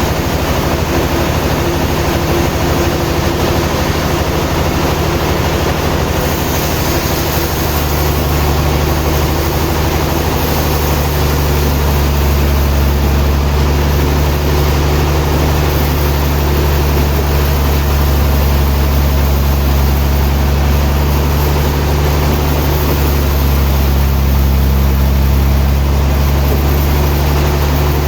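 Sawmill machinery running steadily: a heavy engine's low, even drone that gets a little louder about ten seconds in.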